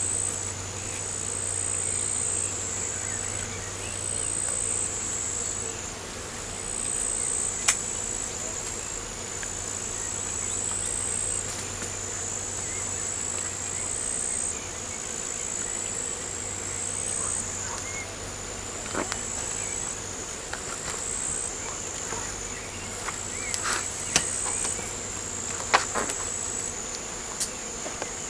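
Insects trilling: a steady high-pitched buzz that shifts slightly in pitch every second or two, with a few sharp clicks near the end.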